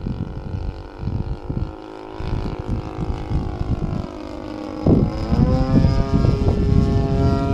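Radio-controlled Aeroworks Extra 260's DLE 35 single-cylinder two-stroke gas engine running in flight, its pitch sliding slowly down and then rising sharply about five seconds in as the throttle opens, after which it holds higher and louder. Heavy wind buffeting on the microphone rumbles underneath.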